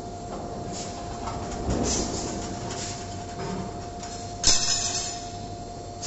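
CNC 3D wire bending machine running: a steady motor whine under repeated swells of mechanical noise about a second apart, with one sharp clank about four and a half seconds in.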